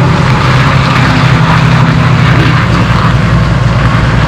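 Tractor's diesel engine running at a steady speed, a deep unbroken drone.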